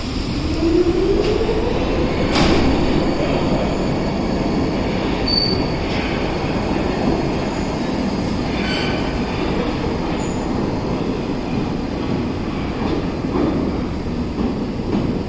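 R62 subway train pulling out of the station: a motor whine rises in pitch over the first two seconds as it accelerates, then gives way to a steady rumble of wheels on the track, with a short high squeal about five seconds in.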